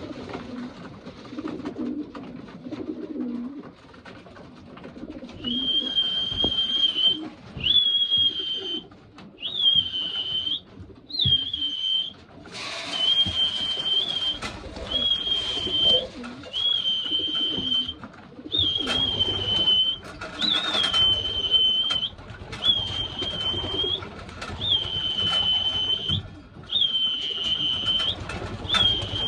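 Pigeons cooing, then from about five seconds in a person whistling one steady high note again and again, about every second and a half, to call the pigeons down through the trap door to feed. A brief burst of rustling noise comes near the middle.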